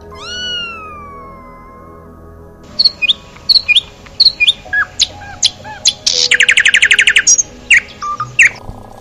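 Bird calls: one drawn-out falling call at the start, then a run of sharp, loud chirps with a fast, even trill in the middle.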